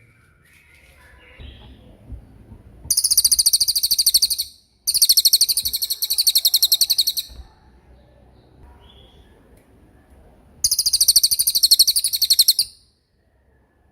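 A songbird sings three loud, very high-pitched rapid trills, each about two seconds long, with pauses between them.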